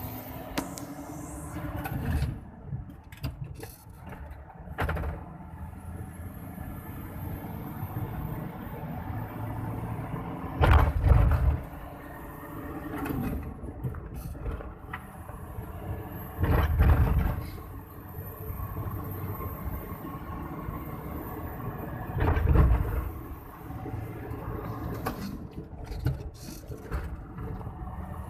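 Mitsubishi Fuso turbo-diesel truck driving, the engine note rising and falling as it works through the gears, with a faint high turbo whistle that climbs slowly twice. Three loud rushes of sound about a second long come roughly 11, 17 and 22 seconds in.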